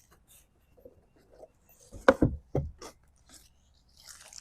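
A quick cluster of three or four knocks about two seconds in, with faint rubbing and handling sounds before them, as of wooden items being moved about.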